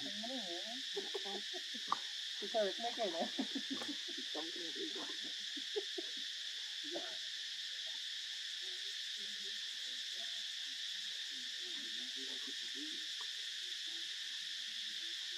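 Steady, high-pitched chorus of insects such as crickets or cicadas, even and unbroken throughout. Faint, low, wavering sounds rise over it in the first few seconds, then thin out.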